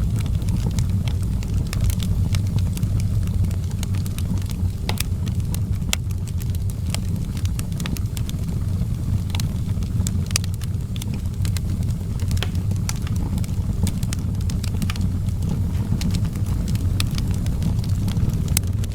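Fire burning in an outdoor fireplace: a steady low rumble with frequent sharp crackles and pops scattered irregularly throughout.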